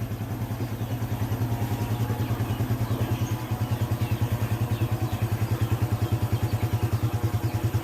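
A small vehicle engine running steadily with an even, rapid putter.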